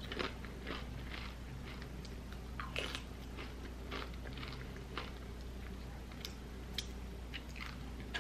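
Tortilla chips being bitten and chewed close up: a run of irregular crisp crunches, with a louder crunch about three seconds in.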